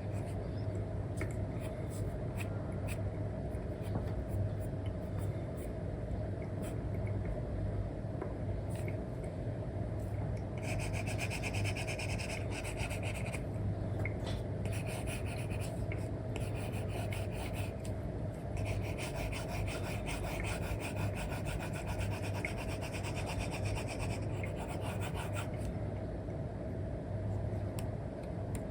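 Stylus nib rubbing and scratching across a paper-like screen film on a tablet during coloring strokes. There are two longer stretches of fast back-and-forth scratching, one about a third of the way in and one around the middle to two-thirds mark, with light taps and short strokes between them, over a steady low hum.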